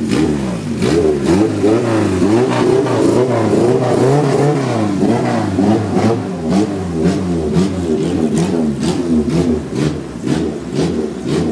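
Honda car's engine revved in quick repeated blips, its pitch climbing and dropping about twice a second, with sharp cracks among the revs, as the car moves off.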